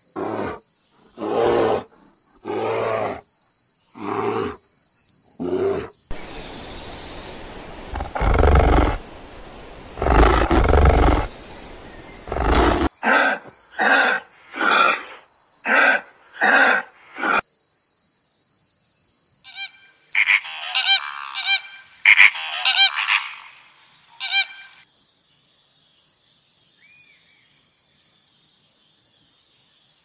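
A sequence of wild animal calls: a run of short growls, then two long, loud, deep roars, then a quick series of short calls, and later a cluster of higher-pitched calls. A steady high-pitched whine runs underneath.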